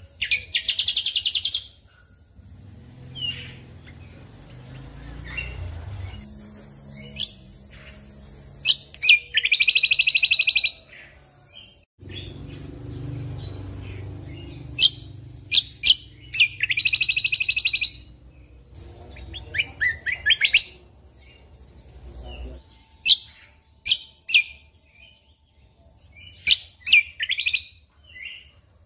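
Cucak kombo (kecial kombok) singing in its rapid-fire 'tembakan' style: a few fast, rattling trills of a second or so each, broken up by many short, sharp chirps. A low rumble sits underneath for the first two-thirds and cuts off suddenly.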